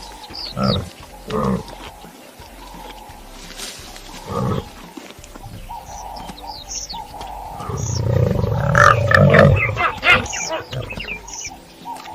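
Animal calls: a few short separate cries, then a louder, denser run of calls about two-thirds of the way through.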